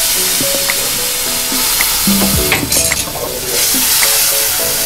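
A metal ladle stirs dal in a pan while the hot ghee tadka poured over it sizzles, with a stronger burst of sizzling about two and a half seconds in.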